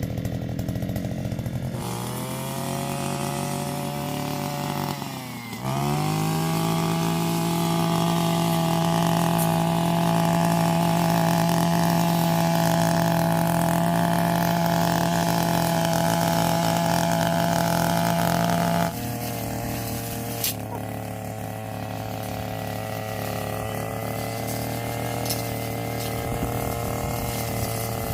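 Small handheld two-stroke engine of a forestry power tool running at low speed, briefly dipping, then revving up and held steady at high speed for about thirteen seconds before dropping back to a lower steady speed near the end.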